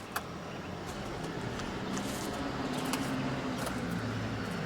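Massey Ferguson 4610M's three-cylinder turbo diesel engine idling steadily, its hum growing slightly louder, with one sharp click shortly after the start.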